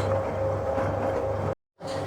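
1966 Bendix LA automatic washing machine running in its final rinse, a steady hum with a constant higher tone over a noisy wash. The sound cuts out completely for a moment about one and a half seconds in, then carries on.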